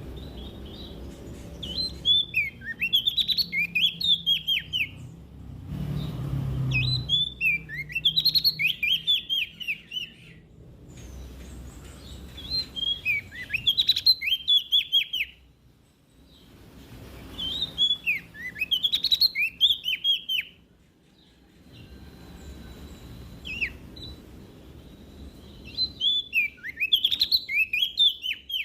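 Prenjak daun songbird singing: bursts of rapid, sweeping high chattering notes, each about three seconds long and repeated every five or six seconds, over a faint low hum.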